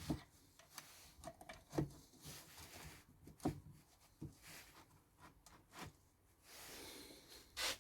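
Faint, scattered knocks and clicks of pieces of decking wood being handled and set against each other, about seven small taps spread irregularly.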